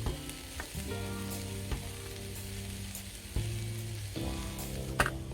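Cabbage and vegetables frying in butter and oil in a pan, a steady sizzle with a few sharp clicks of a utensil against the pan. Background music with held notes runs underneath.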